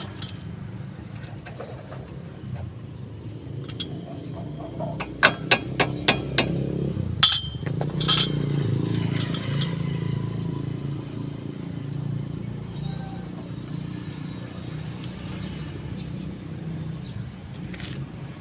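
Metal tools clinking and striking during suspension work: a quick run of about five sharp metallic taps, then two louder knocks, over a steady low hum.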